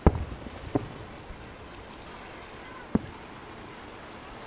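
Aerial firework shells bursting in three booms: the loudest right at the start, another under a second later, and a third about three seconds in, over a steady background hiss.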